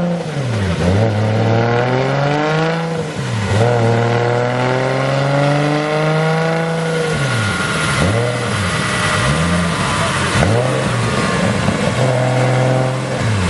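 Tuned Nissan 200SX drift car's engine run hard on a rolling-road dynamometer: the revs climb in long pulls with sudden drops between them, then from about halfway dip and recover about once a second.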